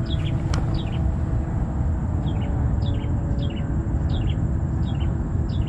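A bird calling over and over with short, high, falling double notes, about two a second, pausing for a second or so near the start, over a steady low rumble.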